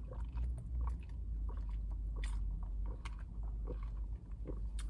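Close-up chewing and biting of a crunchy salad, with scattered small crunches over a steady low hum.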